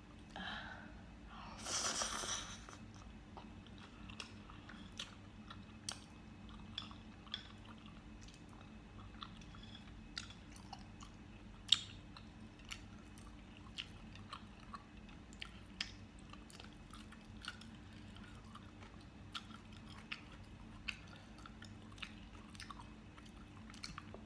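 A person chewing food close to the microphone, with small wet mouth clicks scattered throughout and one sharper click near the middle. A short louder rush of noise comes about two seconds in.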